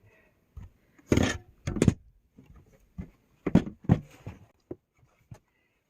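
Short bursts of crinkling and crunching as a hand digs into a plastic bag of de-icing salt, several separate rustles with short pauses between them.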